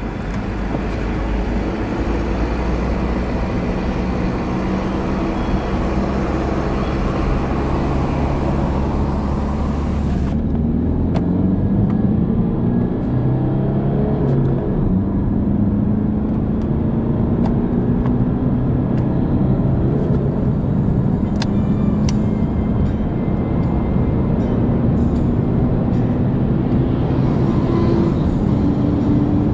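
Car engine running under way, its pitch rising as it accelerates and dropping back at gear changes, over a steady rush of road and wind noise. The high hiss drops away suddenly about ten seconds in, leaving a duller sound.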